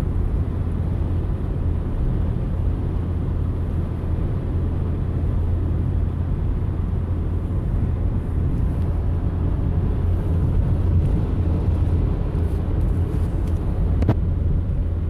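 Steady road and engine rumble heard inside a moving car's cabin, with a single faint click near the end.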